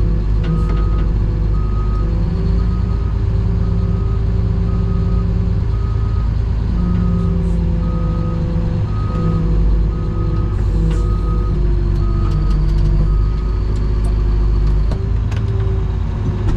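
Reversing alarm beeping about once a second over a steadily running diesel engine as a heavy vehicle backs up. The beeping stops about three seconds before the end.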